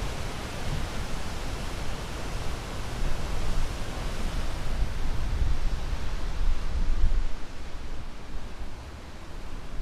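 Sea waves washing onto a shore: a steady rushing hiss over a low rumble, swelling and easing, with a dip near the end.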